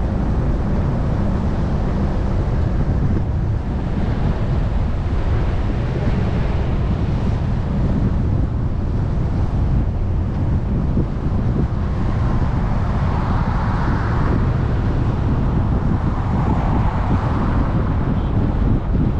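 Steady wind buffeting the action camera's microphone, mixed with a vehicle running underneath, as from a camera riding on a moving off-road vehicle.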